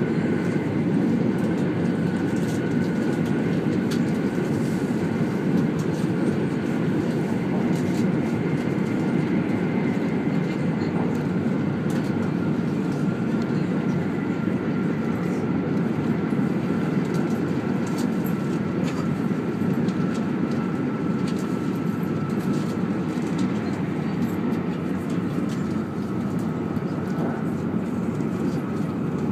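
Running noise of a 200 series Shinkansen at speed, heard inside the passenger cabin: a steady rumble with a faint high tone drifting slowly lower.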